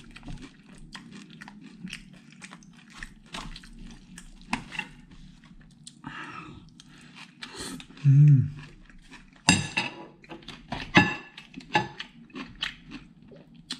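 Close-up chewing and crunching of a mouthful of food, mostly pecel vegetables and sate, with a spoon and fork clicking and scraping on a plate. A brief low hum about eight seconds in, and sharp clicks a little later.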